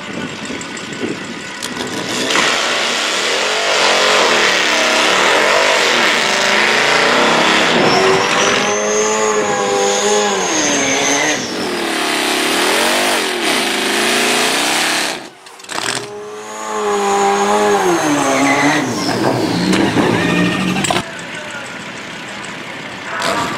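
Drag-racing vehicles launching and accelerating hard down the strip at full throttle. The engine pitch climbs and drops back several times as they shift gears. The sound breaks off about 15 seconds in, then another stretch of climbing revs follows until it drops away near the end.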